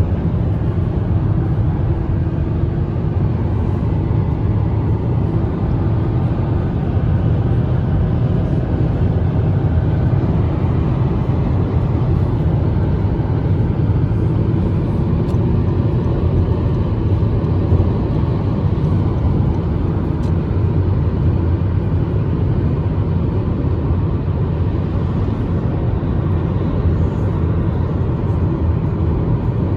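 Steady low rumble of a car driving along a road: engine and road noise with no marked changes.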